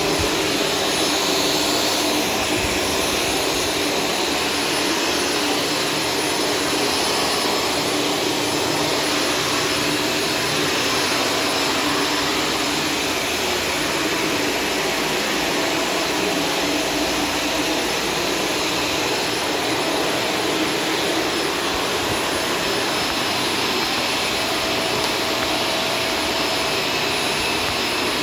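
Shark Stratos vacuum cleaner running steadily: an even rush of air with a few faint steady whine tones from the motor.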